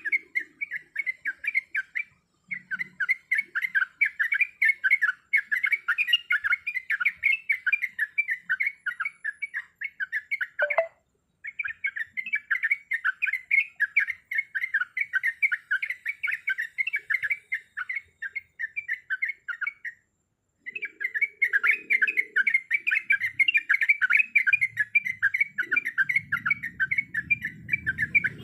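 Yellow-vented bulbuls (trucuk) chattering and singing in a fast, continuous run of short bubbly notes, broken by three brief pauses.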